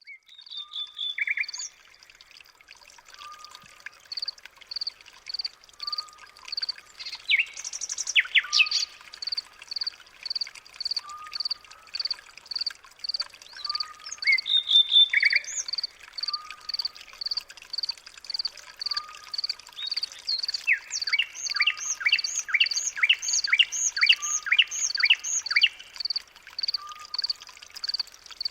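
Songbirds calling and singing. One bird repeats a short high note steadily, a little under twice a second, while others add chirps and quick falling trills, loudest about eight seconds in and again around three-quarters of the way through.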